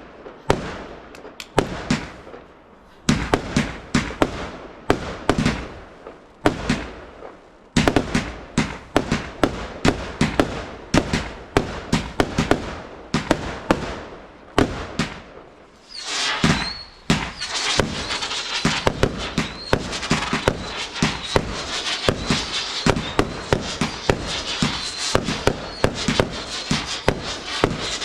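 Garden fireworks going off in rapid succession, sharp bangs a fraction of a second apart. About halfway through, a dense crackling sets in with a steady high whistle running through it.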